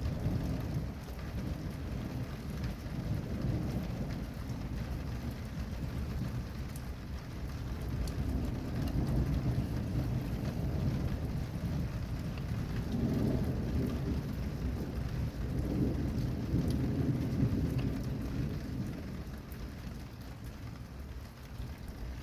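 Rain falling steadily with thunder rumbling low, the rumble swelling about halfway through and easing off near the end.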